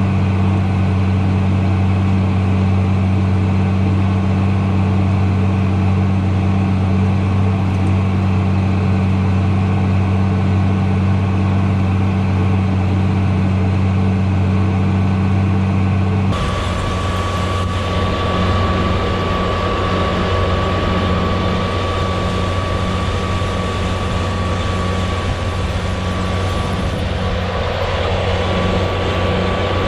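Tractor engine running steadily with a low hum. About halfway through the sound cuts abruptly to another engine sound with a thin steady whine over it.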